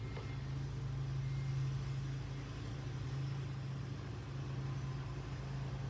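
Electric table fan's motor running with a steady low hum, the fan spinning with three of its blades missing.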